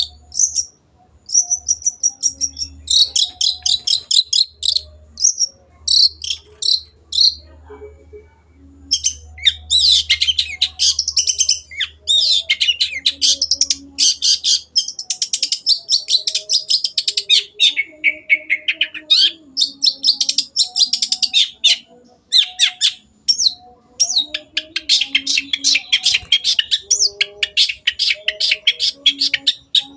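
Long-tailed shrike (cendet) singing: a long run of fast, scratchy, high-pitched chattering phrases broken by short pauses.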